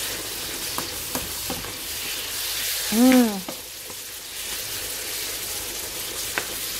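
Sliced apples sizzling steadily in margarine, sugar and cinnamon in a nonstick frying pan as a spatula stirs them, with a few light clicks of the spatula against the pan. About three seconds in, a short rising-then-falling hummed voice sound.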